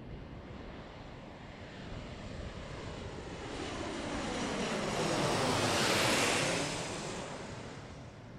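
Airbus A400M's four turboprop engines as the aircraft passes by, the roar swelling to its loudest about six seconds in and then fading away.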